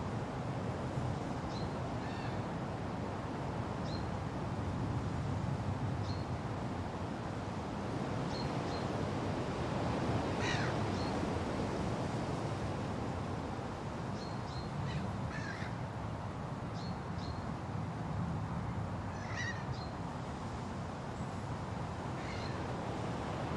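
Steady wind rushing through forest trees, with short, high bird chirps scattered throughout and a few louder, harsher bird calls about ten, fifteen and nineteen seconds in.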